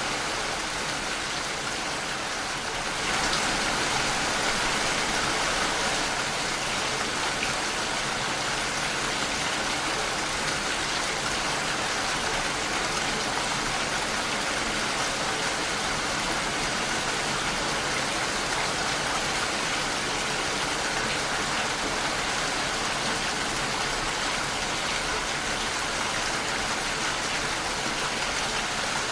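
Steady rain falling against a window pane, an even hiss of drops that grows a little louder about three seconds in.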